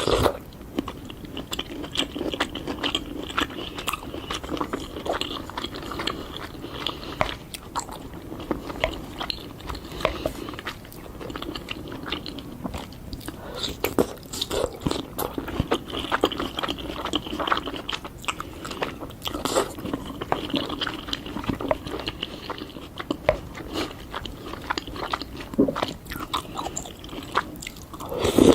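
Close-miked crunching bites and chewing of fruit, with many sharp wet clicks, and a louder crunch at the very end.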